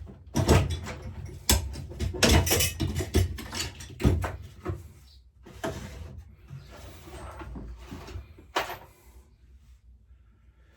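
Knocks, clicks and clatter of hand tools and metal parts being handled while a lawnmower carburettor is worked on. The sounds are busiest in the first half, with one sharp click near the end.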